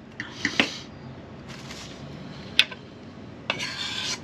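Kitchen handling noises as food is prepared: two sharp clicks of utensils or containers, then a short rustle near the end.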